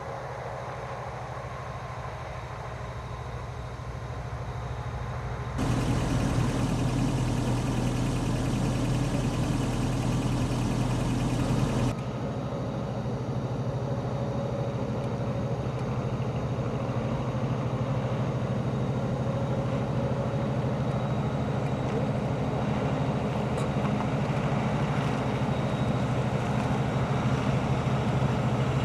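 Heavy engines of the Union Pacific rotary snow plow train running steadily with a low hum. The sound jumps abruptly louder about six seconds in and drops back again about twelve seconds in.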